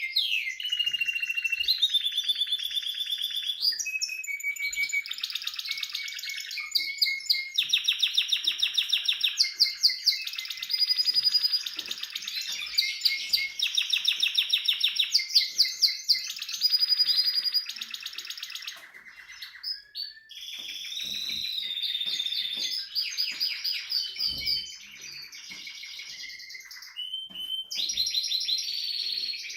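Timbrado Español canary singing a long continuous song of rapid trills and rolls, each phrase giving way to another every second or two, with a couple of softer passages partway through.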